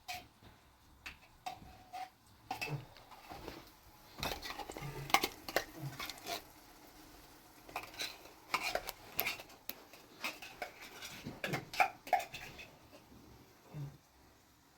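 Irregular clinks and knocks of hard objects being handled, coming thick and fast from about four seconds in.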